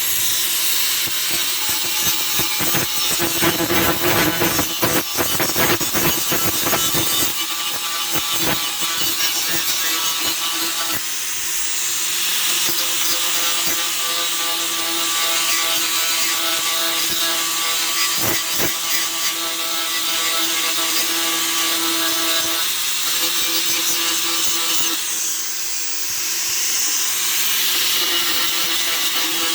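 Electric grinder running steadily against the steel of a saw-blade knife blank, grinding out surface scuffing. Its motor hum stays even under a hissing, scraping grind, which is rougher and louder from about two to seven seconds in.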